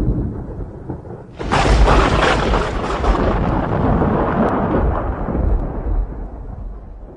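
Thunder: a low rumble dying away, then a sudden loud thunderclap about a second and a half in that rolls on and slowly fades.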